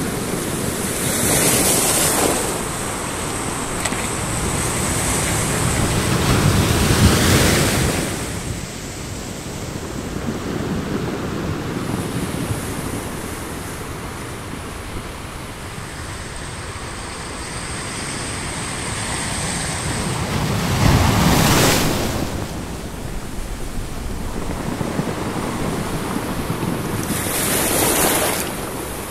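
Black Sea surf washing over a pebble beach: a steady rushing wash, with several bigger waves breaking and hissing up the stones.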